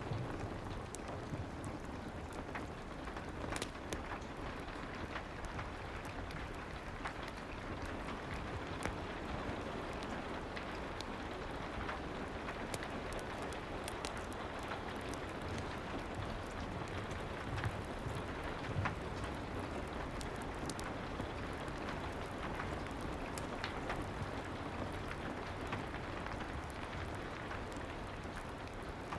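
Steady soft rain hissing, with scattered small crackles and ticks from a fireplace through it and a low rumble underneath.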